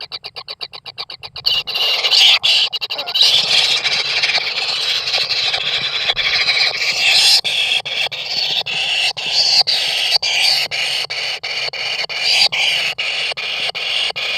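Kingfisher chicks' begging calls: a rapid pulsing, about eight pulses a second, that turns after a second and a half into a continuous harsh, hissing chorus with many short clicks through it.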